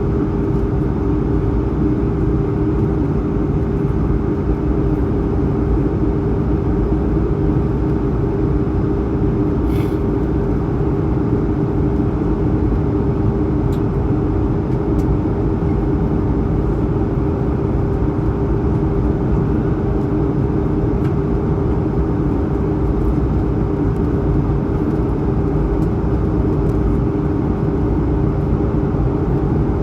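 Steady cabin drone of an Airbus A220-100 in its climb: its Pratt & Whitney PW1500G geared turbofans and the rush of air heard from inside the cabin, a constant roar with a steady hum running through it.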